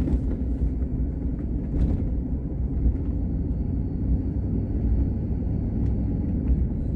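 Steady low rumble of a car driving, heard from inside the cabin, with a faint thin high tone above it.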